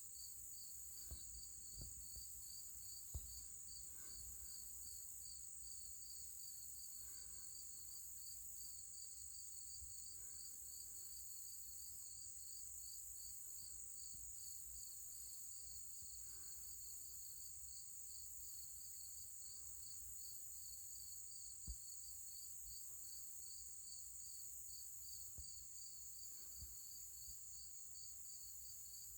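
Insects, crickets or similar, calling steadily: a continuous high trill with a fast, even chirp running through it and a higher buzz that comes and goes. A few faint low thumps.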